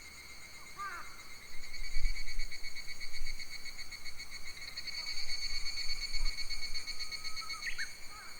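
Summer forest ambience: a steady, high, ringing insect drone, with a few short bird chirps about a second in and near the end. Low wind rumble on the microphone swells about two seconds in.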